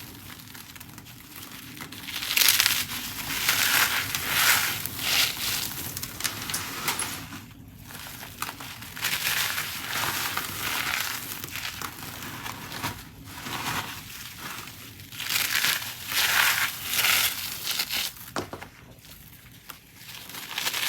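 Dried cornstarch being crushed: dense, crisp crunching that comes in waves, with brief pauses about every five seconds.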